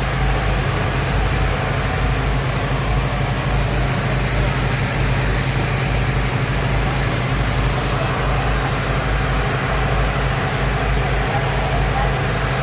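Speedboat engines running at a steady speed, a constant low drone with no change in pitch.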